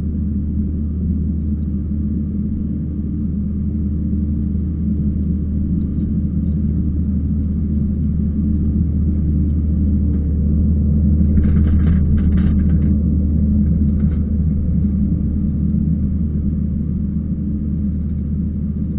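Kubota skid steer's diesel engine running steadily under work, a deep constant rumble. About eleven seconds in there is a short stretch of clattering, then another brief rattle.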